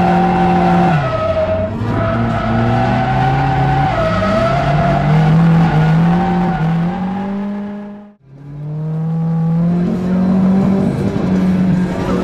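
Nissan 180SX's engine heard from inside the cabin, revving up and down while drifting, with tyre squeal. The engine pitch drops about a second in, climbs again, and the sound fades out briefly about eight seconds in before returning.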